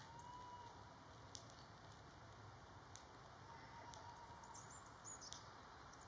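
Near-silent woodland ambience with faint distant bird calls: a thin steady whistle at the start and again around the middle, a short run of high chirps near the end, and a few soft clicks.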